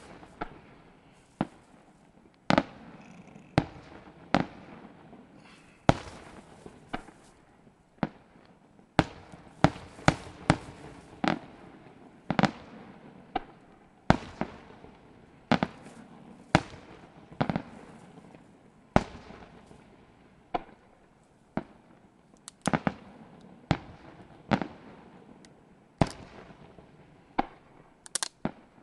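Aerial firework shells bursting one after another in a string of sharp bangs, about one or two a second at irregular spacing, each trailing off briefly.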